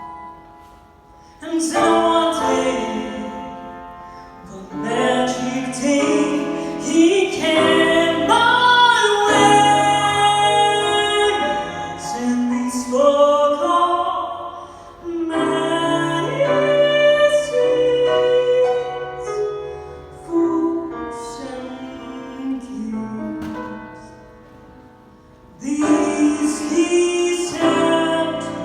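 A woman singing a slow song over instrumental accompaniment, her voice gliding between long held notes, with two quieter stretches.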